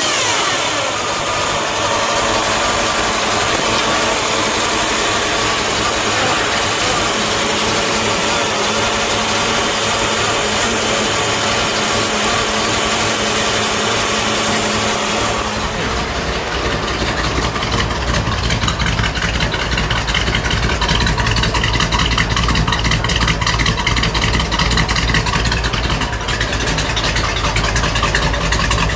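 1957 Chevrolet Bel Air's dual-quad 283 V8 idling steadily just after starting. It is heard first from the engine bay, with a lot of high hiss. About halfway through it is heard at the tailpipe, where the exhaust note is deeper and the hiss fades.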